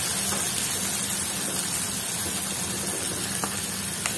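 Tomato and red chilli paste sizzling steadily in hot oil with mustard seeds and garlic in a frying pan, with a few faint spatter ticks.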